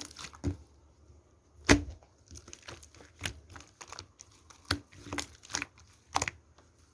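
Slime being pressed and stretched by hand, giving scattered short clicks and crackles, the loudest about two seconds in.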